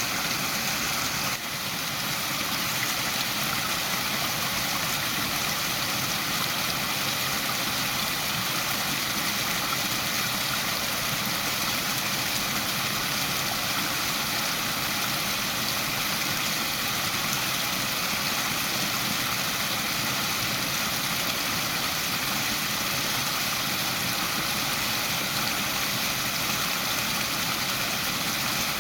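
Waterfall: a steady, dense rush of falling water, with a brief slight drop in level about a second and a half in.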